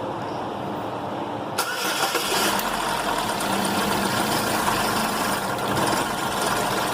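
2011 Chevrolet Equinox engine being cranked and catching about a second and a half in, then running steadily. The engine carries an intake camshaft position actuator solenoid circuit fault and tends to stall.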